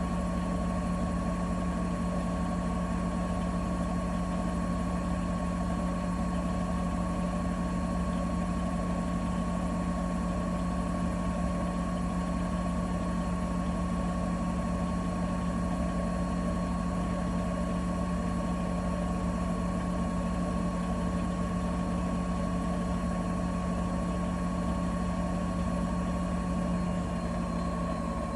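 Bosch Serie 4 WAK20260TR washing machine running continuously: a steady motor hum with a thin whine above it. Near the end the pitch eases down slightly.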